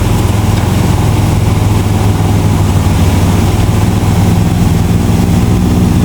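Motorcycle engine idling steadily close by, a loud low rumble with rapid even firing pulses.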